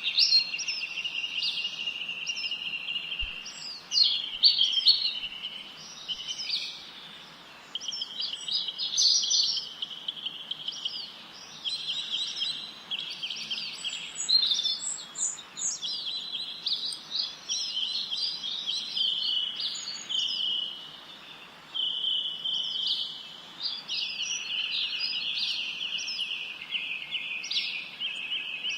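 Songbirds singing and chirping without a break: several birds' rapid, high trills and chirps overlap, with two brief lulls.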